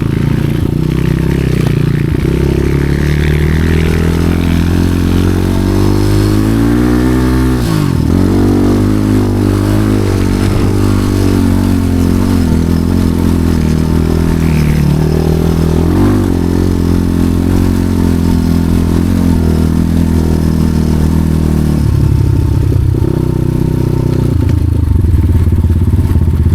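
Motorcycle engine running under way, loud and continuous; its pitch drops sharply and climbs back twice, about 8 and 16 seconds in, and the engine note changes a little past 20 seconds.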